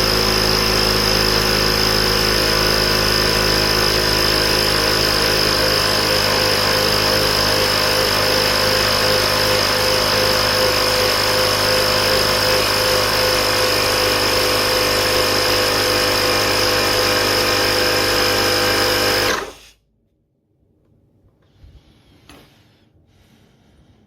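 Portable electric tire-inflator air compressor running steadily with a constant high whine over its motor hum, then switching off abruptly near the end, leaving a few faint knocks.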